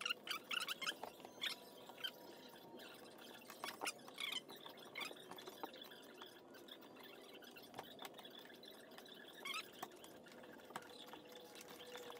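Hand screwdriver driving screws through the hinge of a boat's storage-locker lid: faint scattered clicks and short squeaks of metal on metal.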